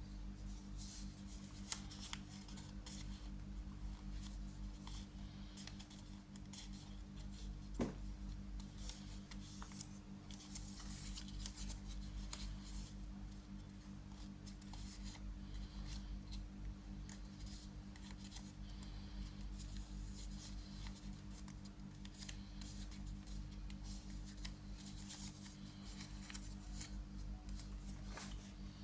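Origami paper being handled and folded, with quiet rustling and short crisp crackles as creases are pressed in, over a steady low hum.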